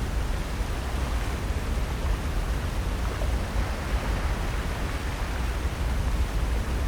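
Steady, rushing outdoor ambience with a deep, fluttering rumble underneath and no distinct events.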